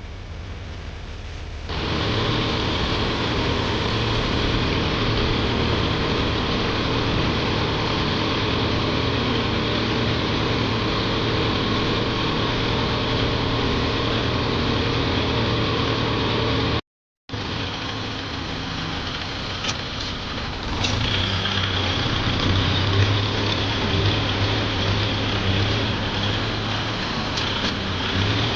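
Tractor diesel engine running steadily. It comes up louder about two seconds in, cuts out briefly about two-thirds of the way through, and then carries on with a slightly different tone and a few light clicks.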